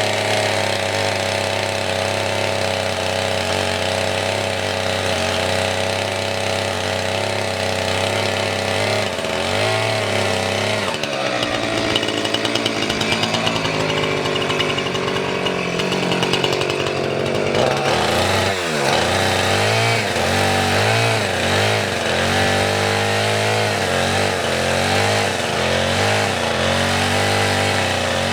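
Gasoline chainsaw running hard through firewood logs, its engine note sagging and recovering again and again as the chain bites in. There is a deep dip in pitch about two-thirds of the way through.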